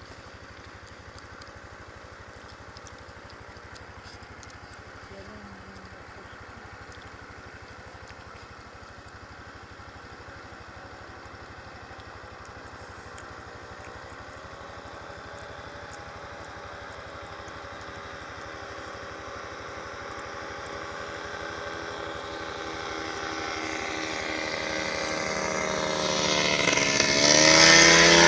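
Aircraft engine approaching, growing steadily louder with a slightly wavering pitch, then passing close near the end with a quick dip in pitch as it goes by.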